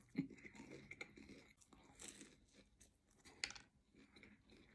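Quiet chewing and crunching of fried chicken, with a few short, sharper crunches, the loudest about three and a half seconds in.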